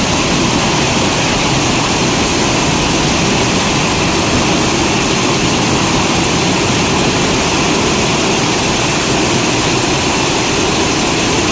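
Hailstorm: hail and rain falling hard and without pause, a loud, dense, even noise.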